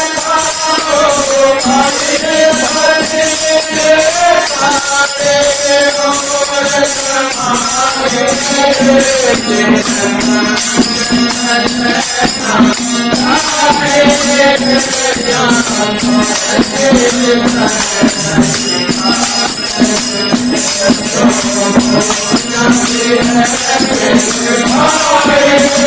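Devotional bhajan music with jingling hand percussion keeping a fast steady beat and a melody that slides between long held notes.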